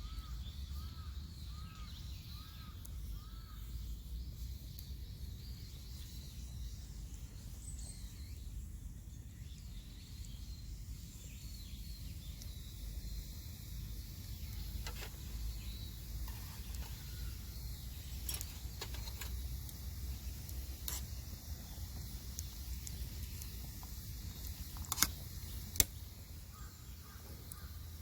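Outdoor ambience with a steady low rumble. Crows caw a few times in a short series near the start and again at the end, and a few sharp snaps or cracks come in the second half, the loudest two close together near the end.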